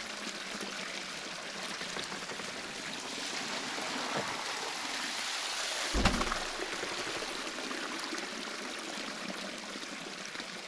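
Water flowing and splashing steadily at a traditional waterwheel, with a single low thump about six seconds in.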